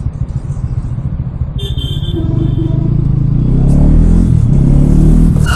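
Bajaj Pulsar NS200's single-cylinder engine running under way, its pitch climbing steadily about halfway through as the motorcycle speeds up.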